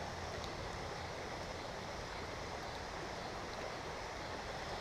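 Steady rush of shallow creek water running over rocks.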